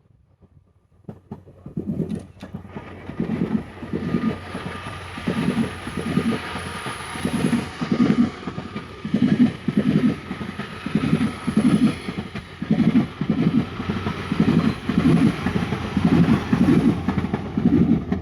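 Train rolling past, its wheels clattering over rail joints in regular double beats, one pair roughly every two seconds, over a steady rumble with a faint high whine. The sound builds about a second in.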